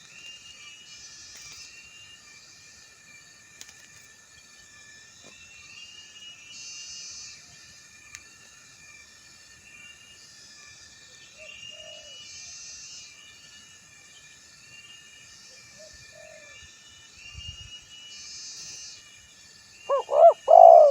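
Spotted dove cooing: faint coos a little past the middle, then a loud run of three or four coo notes near the end, the male's call used to lure other doves. Underneath runs a steady high chorus of insects and small birds, with a repeating chirp every few seconds.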